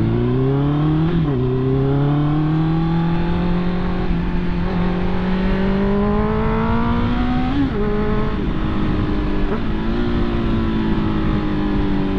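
Honda CB650R inline-four engine pulling away and accelerating through the gears, its pitch rising and dropping at an upshift about a second in, rising slowly again, dropping at a second upshift near eight seconds, then running steadily with a slight fall.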